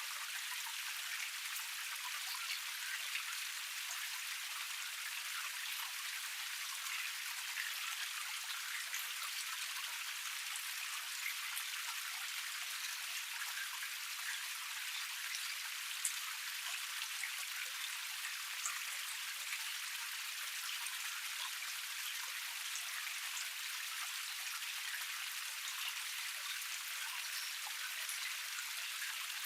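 Small forest cascade: water splashing and trickling over rocks in a steady, thin hiss with no low rumble, dotted with many small droplet ticks and one sharper splash about halfway through.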